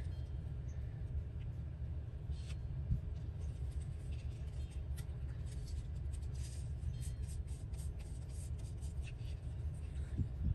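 Soft rustles and light taps of paper scraps being handled and pressed down onto a board, over a steady low hum.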